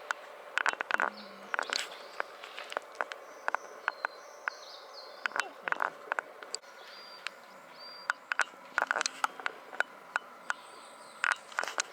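Outdoor woodland ambience with faint, short, high bird calls. Many brief sharp clicks and ticks come at irregular intervals and are the loudest sounds.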